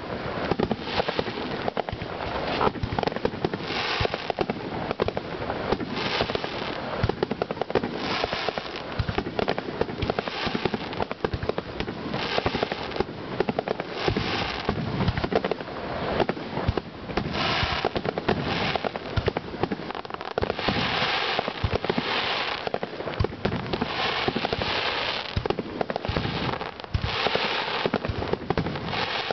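Aerial fireworks going off in a dense, continuous barrage: many sharp bangs overlapping with crackling, and a fresh burst of crackle every second or two.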